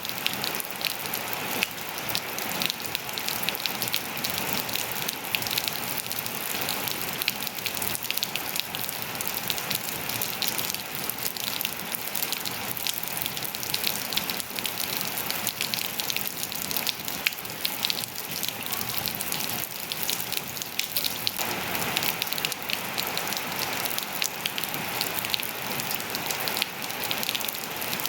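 Steady rain falling on surfaces, a continuous hiss thick with the tick and patter of individual drops; it grows slightly fuller about three quarters of the way through.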